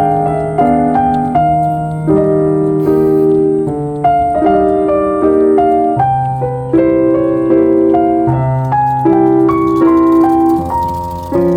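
Background piano music: a melody of struck notes, each fading after it sounds, over held low bass notes.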